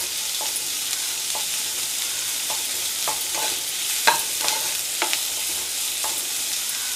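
Chopped onions and garlic sizzling in hot oil in a nonstick pan while being stirred, a steady hiss with irregular clicks and scrapes of the spatula against the pan, one sharper tap about four seconds in. The onions are being sautéed until they soften and colour.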